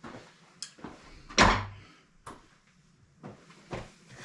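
Airbox being pulled out of the engine bay: scattered knocks and clicks as it is handled, with one louder thud about a second and a half in.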